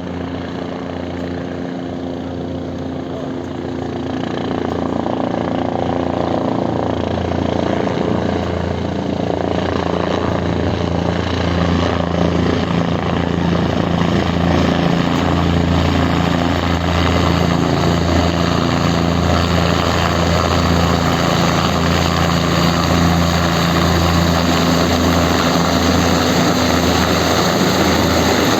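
Helicopter turbine and rotor running at close range, a steady whine over a pulsing low beat from the blades, growing louder over the first dozen seconds and then holding steady.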